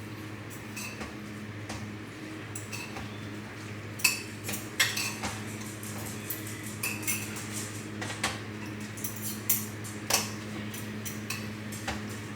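A spoon clinking and scraping against a cooking pot while stirring, with scattered taps, the sharpest about four seconds in and about ten seconds in. A steady low hum runs underneath.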